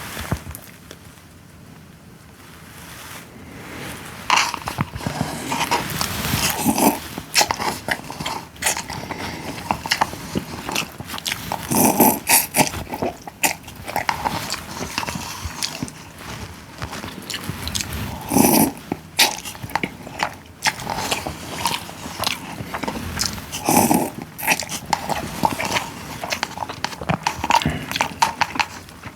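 Close-up eating sounds: chewing and other mouth noises with many small clicks and taps. There are louder, fuller bursts about 12, 18 and 24 seconds in.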